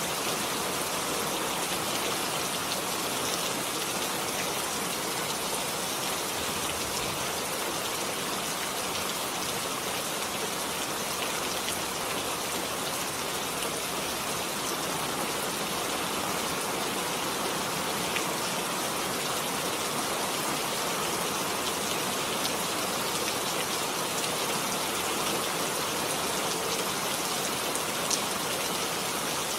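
Heavy rain falling in a steady hiss, with scattered drop ticks.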